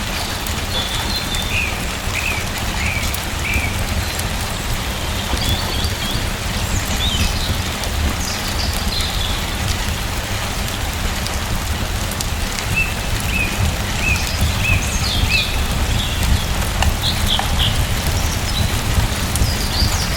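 Steady rain falling, with a deep low rumble under it, while small birds chirp in short scattered calls now and then.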